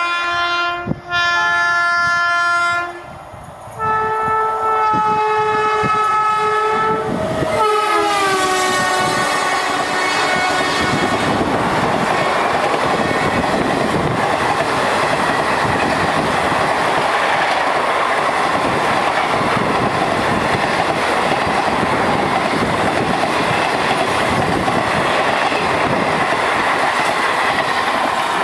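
WAP-7 electric locomotive's shrill horn: a long blast, then a higher-pitched one whose pitch falls about eight seconds in as the locomotive passes. Then the express train's coaches run past at speed, a steady loud rush with wheels clattering over the rails.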